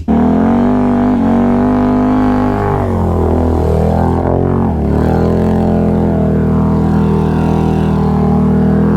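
ATV engine running at steady throttle, one low drone that dips in pitch between about three and five seconds in as the throttle eases, then picks back up.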